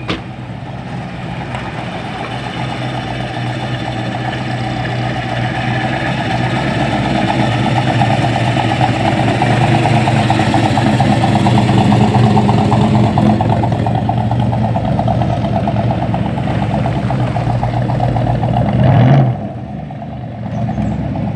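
A very loud car engine running at low speed, growing steadily louder as it approaches and passes, with a short rev about nineteen seconds in before the sound drops away abruptly.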